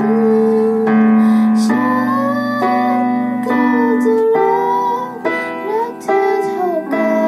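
A singer holding and sliding between notes in a melody over sustained keyboard chords, as a voice test.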